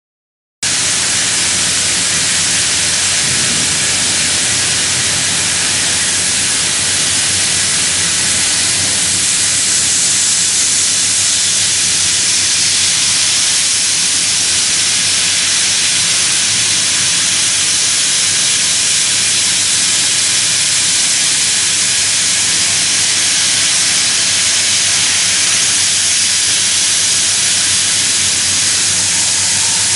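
Steady hiss from a CNC milling machine at work with an HPMT SE30 plunge-mill cutter, which cuts smoothly without chatter. It starts about half a second in.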